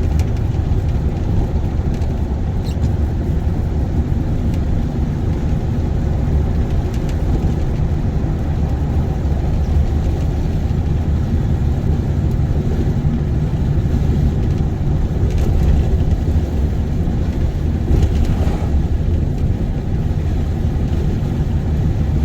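Steady low rumble of a vehicle being driven: engine and tyre noise at a constant pace.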